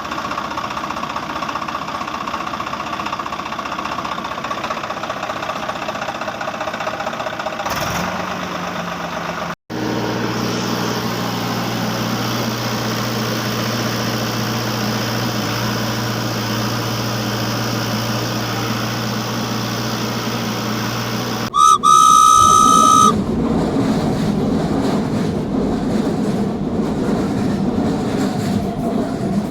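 Cartoon sound effects of a train and vehicle engines at a railway crossing: steady engine running sounds, then one loud train whistle blast about 22 seconds in, lasting about a second and a half, followed by the rumble of a passing train.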